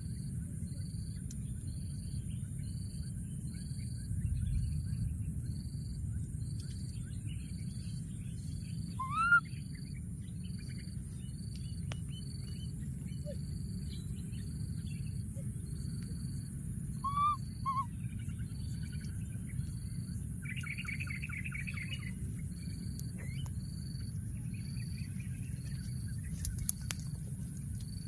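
Outdoor bird calls: a short high pip repeated a little more than once a second, a few short rising chirps, and a quick trill about two-thirds of the way in. Underneath run a steady high hiss and a low rumble.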